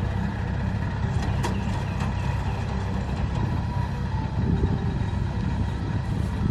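Kubota rice combine harvester's diesel engine running steadily with a deep, even drone.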